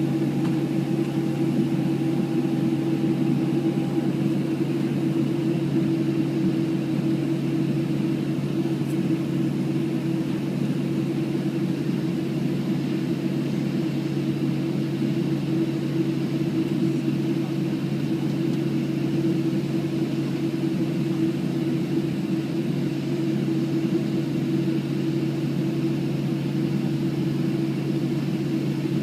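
Cabin noise inside a Boeing 737-700 rolling on the ground after landing: a steady hum of the engines at idle and the air system, with two steady low droning tones.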